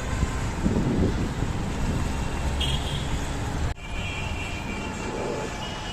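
Steady rumble of a Dhaka Metro Rail train and its surroundings, with faint high squeals. The sound breaks off abruptly just under four seconds in and then carries on.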